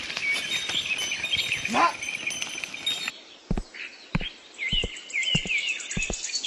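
Birds chirping with short repeated calls, and a single rising call a little under two seconds in. In the second half a series of sharp, irregular knocks sounds over the chirping.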